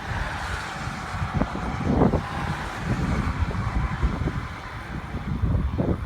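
Gusty wind blowing across the microphone: uneven low buffeting under a steady rushing hiss, with a brief stronger gust about two seconds in.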